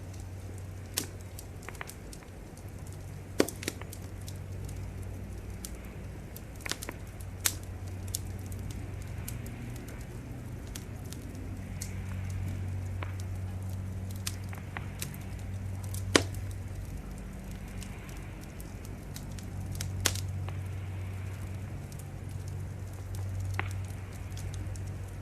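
Wood fire crackling, with irregular sharp pops scattered through it over a low steady rumble.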